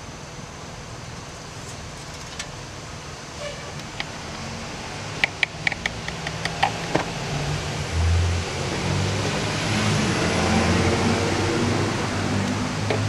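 Steady low hum of a running vehicle engine. A quick run of about seven sharp clicks comes about five seconds in, and a short low thump about eight seconds in, after which the hum grows a little louder.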